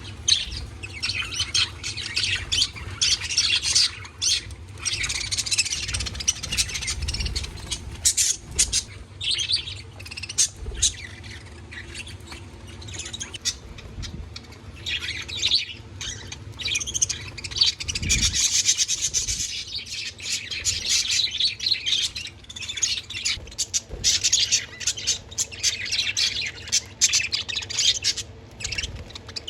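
A group of pet budgies chirping and chattering continuously, with rapid squeaky calls and sharp clicks.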